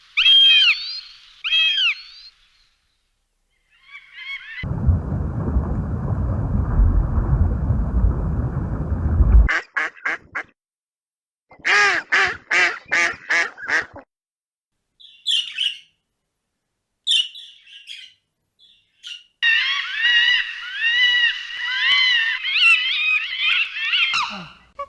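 Birds calling in several short separate clips: two calls at the start, a run of about six quick repeated calls in the middle, and many birds calling over one another near the end. Between them comes a stretch of steady rushing noise lasting about five seconds.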